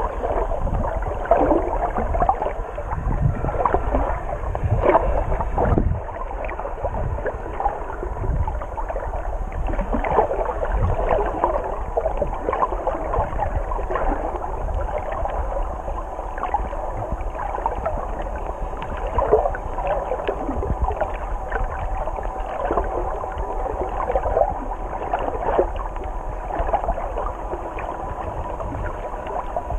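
Muffled underwater sound from a camera held in the sea: water moving and gurgling around it with irregular small clicks and crackles over a low rumble.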